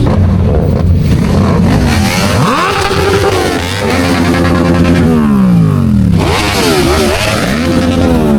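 A performance vehicle's engine idling, then revved about three times, each rev climbing in pitch, holding briefly and falling back to idle.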